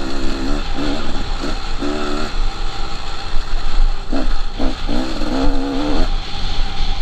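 KTM 300 two-stroke dirt bike engine revving on and off with the throttle. The pitch wavers up and down in spells, with a few short blips of throttle about two-thirds of the way in.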